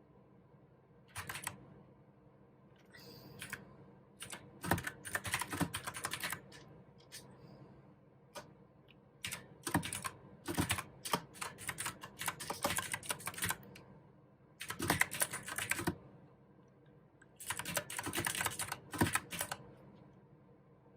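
Mechanical keyboard with clicky blue switches being typed on in quick runs of keystrokes, with short pauses between the bursts.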